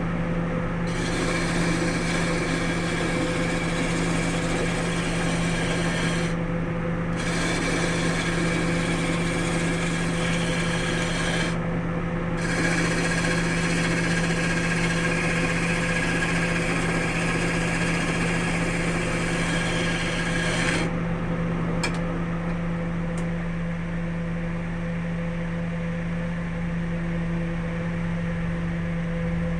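Wood lathe motor running with a steady hum while a hand tool works the spinning wood in three stretches with short breaks. The tool comes off about two-thirds of the way in, leaving the lathe humming alone with a couple of light clicks.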